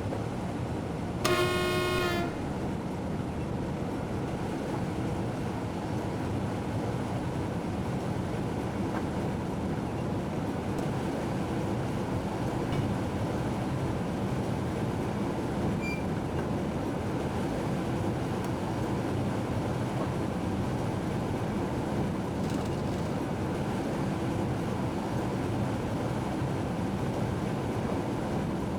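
Train horn sounding one blast of about a second, shortly after the start, over the steady rumble of the train running, heard from inside the locomotive cab.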